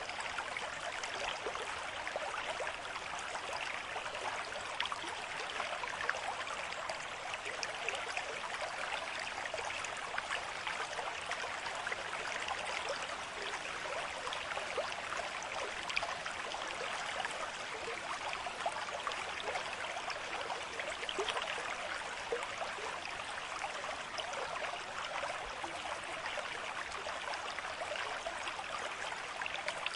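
A stream flowing steadily, a continuous babble of water with many small splashes and trickles.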